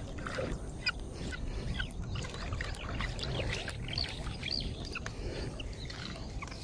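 Birds chirping, many short calls scattered throughout, over a low steady rumble.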